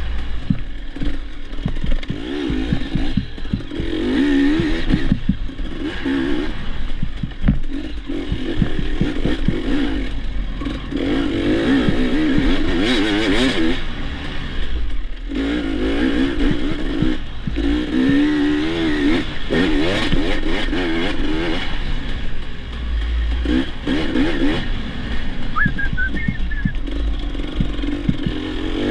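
Dirt bike engine being ridden hard on a trail, its pitch rising and dropping over and over with throttle and gear changes. Clattering and rattling run through it.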